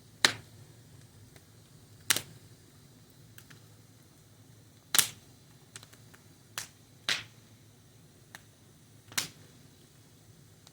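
Fire crackling: sharp pops at irregular intervals, about five loud ones a second or two apart with smaller snaps between them, over a faint low background.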